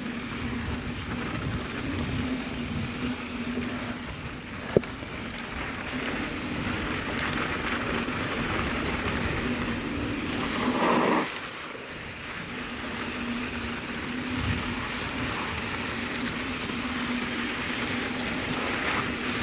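Mountain bike rolling along a dirt trail: steady tyre noise on loose dirt and wind on the microphone, with a faint steady hum, a single sharp click about five seconds in, and a brief louder rush about eleven seconds in that stops suddenly.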